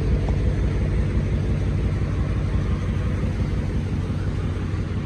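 2018 Dodge Charger R/T's 5.7-litre HEMI V8 idling with a steady low rumble.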